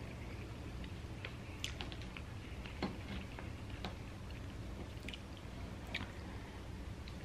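Close-up chewing of cheese-covered animal style fries: scattered wet mouth clicks and smacks, with a plastic fork scooping from a paper fry tray.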